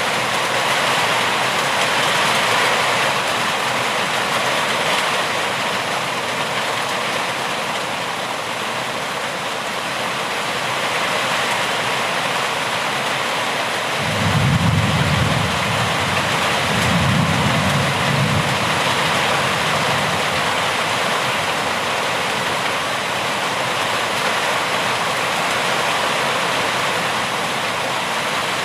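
Steady heavy rainfall, an even rushing hiss. About halfway through come two low rumbles lasting a couple of seconds each.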